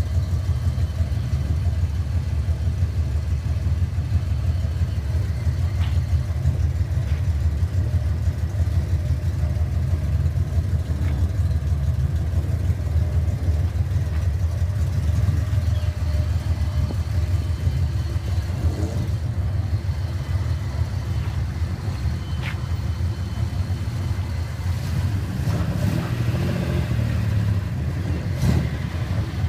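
Classic Nissan cars with loud aftermarket mufflers, their exhausts giving a deep steady rumble at idle, with a few revs of the engine in the last third.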